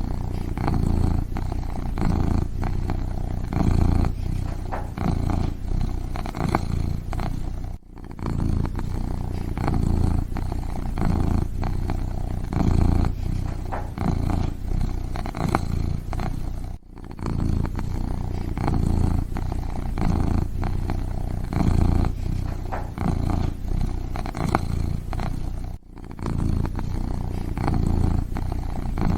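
Kitten purring steadily close up, a low rumble that swells and eases with each breath. The sound cuts out very briefly about every nine seconds.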